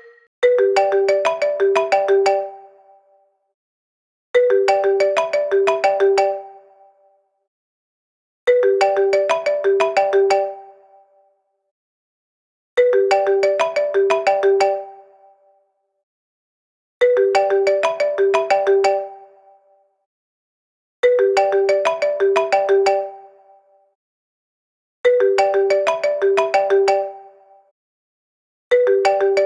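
An iPhone ringtone: a short melodic phrase of bright pitched notes ending with one low note struck four times, repeating about every four seconds with a gap of silence between.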